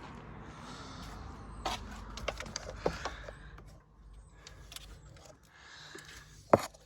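Light clicks and knocks from handling the parts: a quick run of them in the second and third seconds and one sharp click near the end, over a low rumble.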